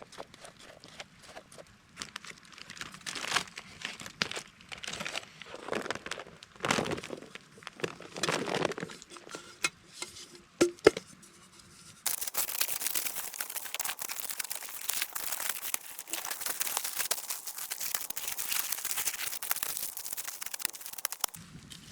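Aluminium foil being torn and crinkled by hand in irregular bursts, followed about twelve seconds in by a dense, steady crackling hiss that cuts off suddenly near the end.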